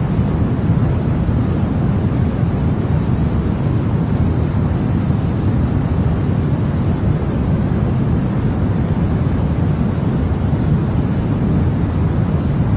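Continuous white noise played for infant sleep: an even, deep rushing sound that never changes.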